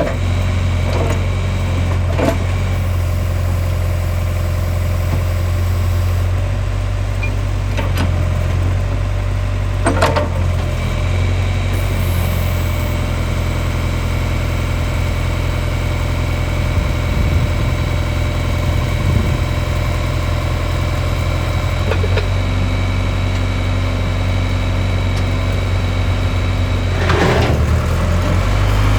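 John Deere 410B backhoe's diesel engine running steadily at idle, with a few short clanks and knocks now and then.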